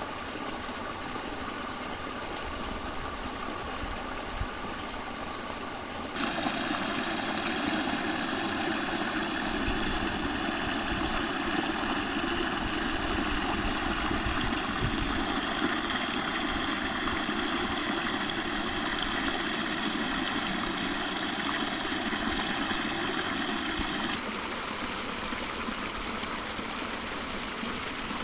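Stream water running steadily over rocks. It gets louder about six seconds in and drops back near the end, as the shots change.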